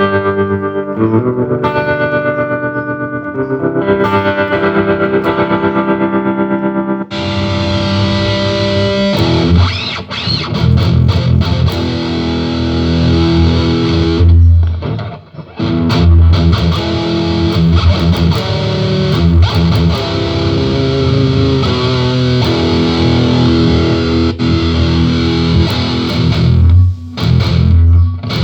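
Electric guitar played through a Korg AX1000G multi-effects processor and amp. It starts with sustained, pulsing effected notes, then switches about seven seconds in to a heavily distorted tone that carries on through the rest of the playing.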